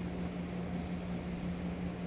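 Steady machine hum: one constant low tone over an even rumble and hiss, unchanging throughout.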